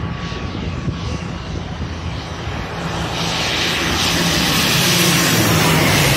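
Airliner passing overhead, its engine noise swelling from about halfway in to a loud peak near the end, with a low hum that slides slightly down in pitch.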